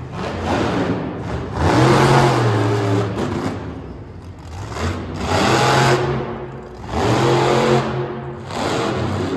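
Monster truck engine revving hard in three surges, with the throttle easing off between them.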